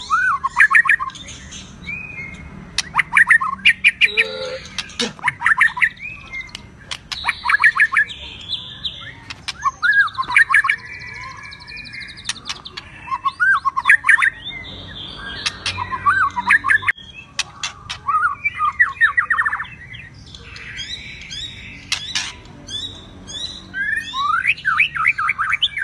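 White-rumped shama and oriental magpie-robin singing: loud varied phrases of whistles, rising glides and rapid trills, coming in bursts every two to three seconds, with harsh chattering calls between them.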